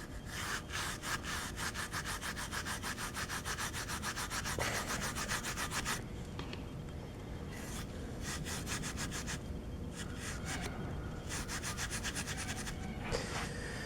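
A hand tool scraping rust off metal with quick, even back-and-forth strokes for about six seconds, then slower, irregular strokes.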